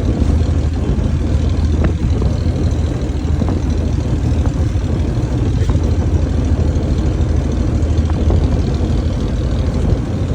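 Boat engine running steadily: a loud, low drone.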